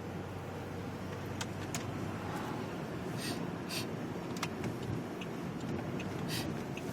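Steady road and engine noise heard from inside a moving car, with a few light clicks and rattles scattered through it.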